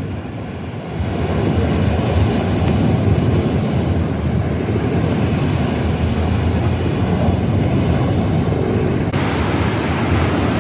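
Sea waves breaking and washing on a shore, a continuous low rumbling surf with wind buffeting the microphone. The surf swells up about a second in.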